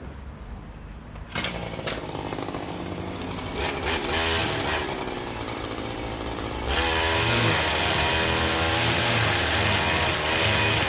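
Honda walk-behind lawn mower's four-stroke petrol engine starting about a second in and running, its speed rising, then louder and fuller from about two-thirds of the way through.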